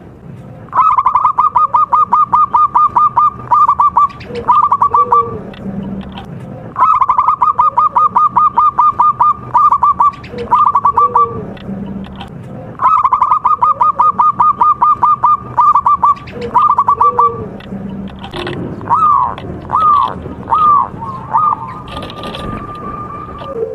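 Bird song: loud phrases of rapid, evenly repeated notes, about seven or eight a second, each lasting about three seconds and coming back every six seconds, with softer low coos between them. Near the end come a few single falling notes and one held note.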